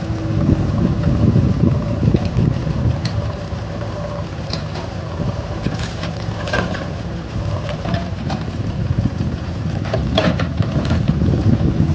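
Heavy diesel engine running, swelling louder a couple of times, with a few short clicks and knocks.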